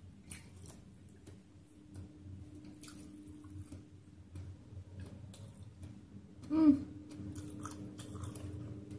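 A person chewing fried tofu with sambal close to the microphone: soft smacking and small mouth clicks. About two-thirds of the way in comes one short, loud hum of the voice, an approving "mmm".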